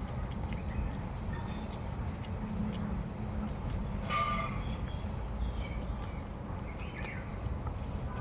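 Outdoor nature ambience: a steady high insect drone over a low rumble, with short bird calls about halfway through and again near the end.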